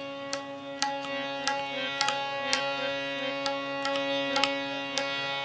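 Instrumental kirtan music: a steady held chord from a harmonium-like reed instrument, with tabla strokes about twice a second. It cuts off suddenly at the end.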